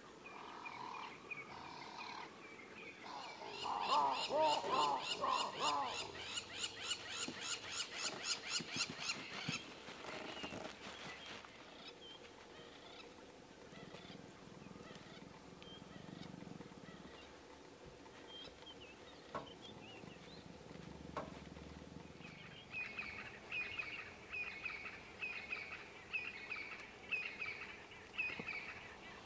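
Birds calling in the bush: a loud, rapidly repeated series of calls from about three seconds in, falling away by ten seconds, then another run of quick repeated calls near the end.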